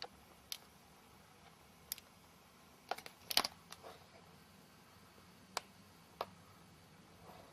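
Scattered sharp clicks and taps, about eight in all, with a quick cluster around the middle, over a quiet background hiss.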